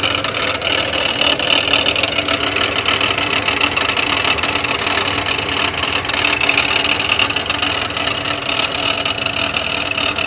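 Oldsmobile 88's engine running steadily with a fast, constant rattle from the engine bay, which the owner thinks could be the power steering pump pulley.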